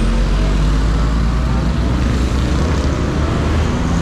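CFMoto 400NK motorcycle running steadily while being ridden, its low engine drone mixed with heavy wind and road noise on the rider's microphone.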